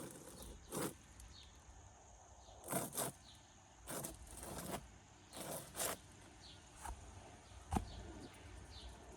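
Irregular rustling scuffs, about eight short ones spaced roughly a second apart, like movement through grass or brush. Faint, brief high chirps, birds or insects, can be heard between them.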